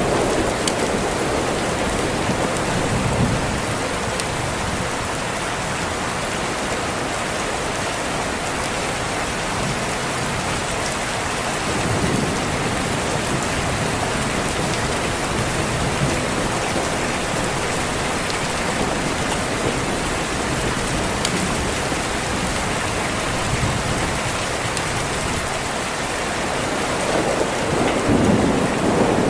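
Steady rain on a window, with low rolls of thunder about three seconds in, again around twelve seconds, and loudest near the end.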